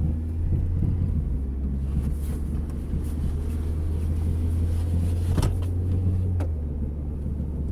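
Steady low rumble of a car's engine and road noise heard from inside the cabin as it drives off. Two short sharp clicks come about a second apart, and the rumble eases slightly after the second one.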